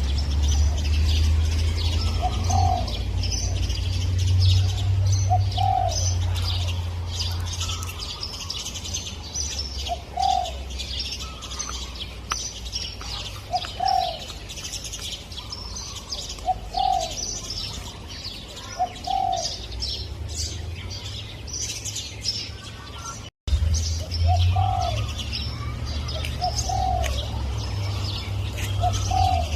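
Spotted dove cooing in short repeated notes every one to three seconds, over a steady chorus of small birds chirping and a low wind rumble. The sound cuts out for an instant about three quarters of the way through.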